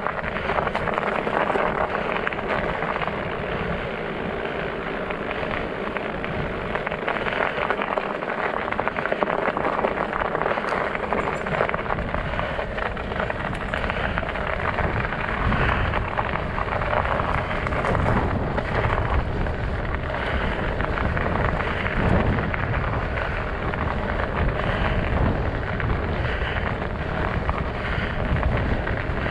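Studded fat-bike tires rolling over ice and snow: a continuous noise with many small clicks. From about halfway through, wind rumbles on the microphone.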